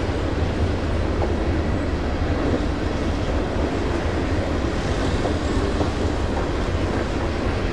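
A train passing close by: a steady rumble of steel wheels on the rails.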